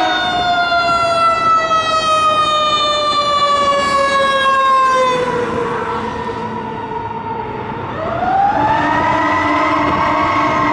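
Fire engine siren slowly winding down in pitch and fading over about six seconds, then winding back up again about eight seconds in.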